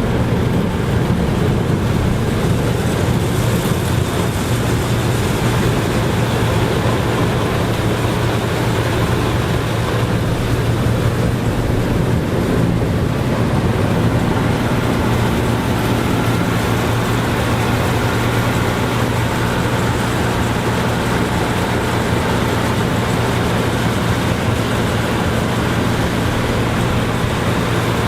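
Harvest machinery engine running steadily, a continuous low drone with a strong hum and no change in speed.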